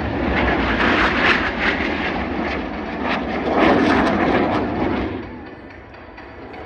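Light piston-engine propeller aircraft flying past, its engine fading away about five seconds in.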